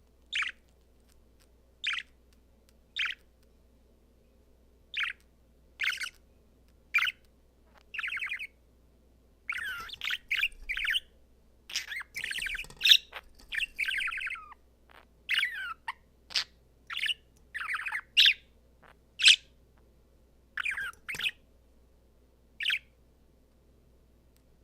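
A male budgerigar chirping and warbling: short separate chirps at first, then a denser burst of chattering warble in the middle, easing back to single chirps near the end.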